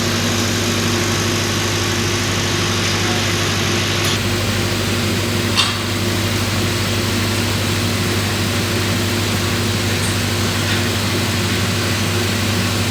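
A machine engine running steadily, with a brief sharp clank about five and a half seconds in.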